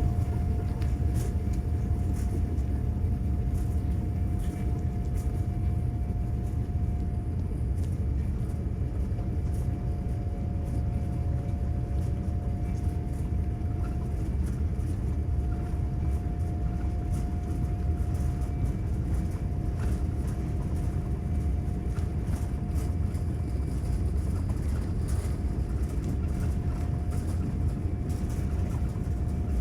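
Boeing 787-9 cabin noise while taxiing: a steady low rumble from the engines and wheels, with a steady whine held on one pitch and faint light rattles. The level holds even, with no build-up of takeoff thrust.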